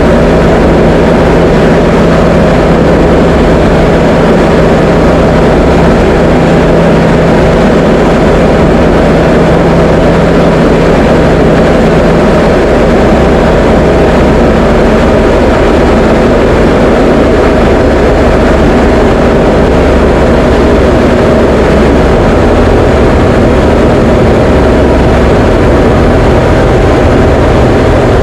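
Diamond DA20 light aircraft's piston engine and propeller droning steadily in cruise, heard from inside the cockpit. The pitch shifts slightly about halfway through and again later on.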